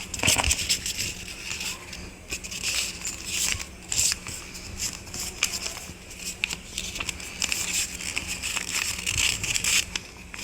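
A sheet of paper being handled and folded by hand: an irregular run of rustles and crinkles, with sharper crackles as folds are pressed and creased.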